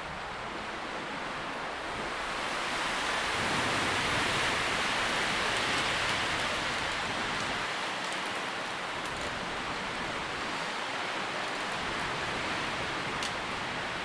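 Wind moving through tree leaves, a steady rustling hiss that swells in a gust a few seconds in and slowly eases off, with a few faint light ticks.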